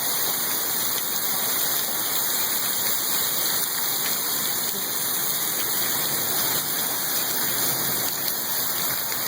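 Heavy rain falling steadily, an even rushing hiss with no letup.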